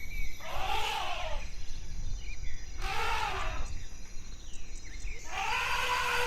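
Animal calls, each about a second long and rising then falling in pitch, repeated four times over a steady low rumble.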